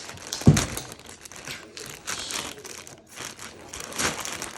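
Packaging rustling and crinkling in quick irregular bursts as items are handled and pulled out of a parcel, with one heavier thud about half a second in.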